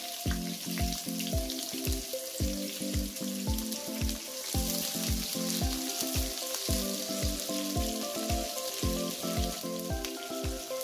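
Chopped onions sizzling as they fry in hot oil in a kadai, stirred with a spatula. Background music with a steady bass beat and a repeating melody plays over it throughout.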